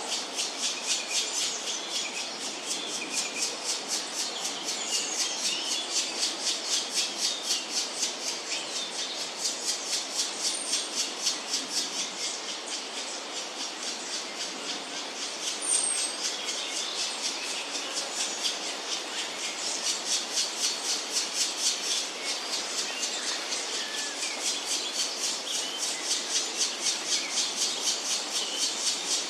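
Black woodpecker chiselling at wood: a steady run of short strikes, about three to four a second, easing briefly midway. Faint chirps of small birds come in a couple of times.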